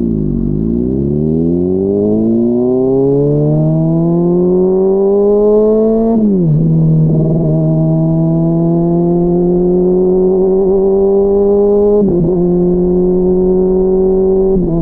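Honda CBR600RR inline-four engine under way, revving up through the gears. The pitch climbs for about six seconds, drops sharply at an upshift, rises slowly, drops again at a second upshift about twelve seconds in, then holds at a steady cruise.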